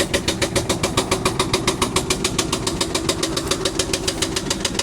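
A 1998 Ford F-150's 4.6-litre V8 running with a steady, rapid knock, about eight knocks a second. The knock seems to come from around the starter, and the owner thinks it is the starter or the transmission.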